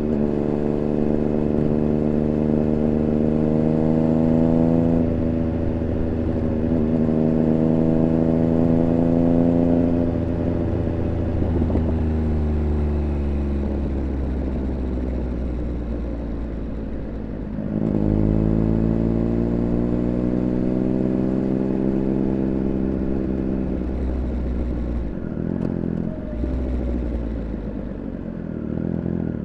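Triumph Speed Triple 1200 RR's three-cylinder engine heard onboard, pulling up through the gears with a drop in pitch at an upshift a few seconds in, then winding down off the throttle. Just past halfway it picks up again with a sharp rise in pitch, and near the end there are a couple of brief throttle cuts.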